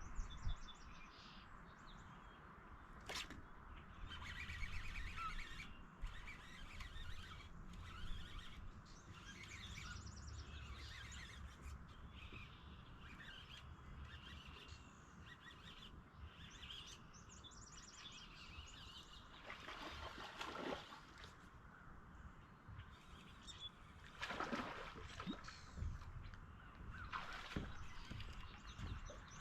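Small birds chirping and singing faintly, with a few short rustling or handling noises.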